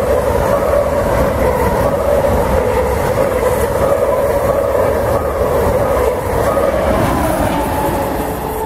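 ICE high-speed train running past close by at speed: a steady loud rush of wheels on rail and air, with a steady mid-pitched hum, getting a little quieter near the end.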